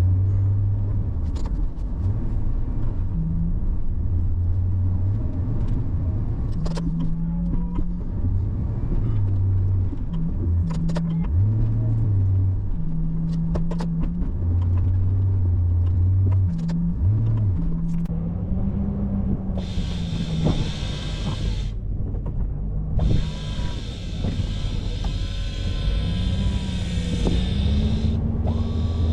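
Plow truck engine running and rising and falling in pitch as it works through deep snow, heard from inside the cab, with scattered clicks and knocks. About twenty seconds in a steady hiss joins it, cuts out for a moment, then returns until near the end.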